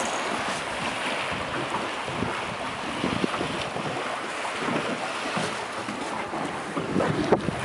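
Wind buffeting the microphone over the wash of the sea around a small boat, a steady noise with no engine tone.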